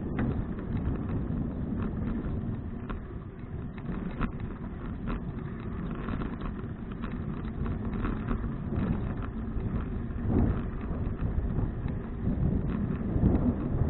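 Wind rumbling over an action camera's microphone while riding a bicycle, with scattered light clicks and rattles through it.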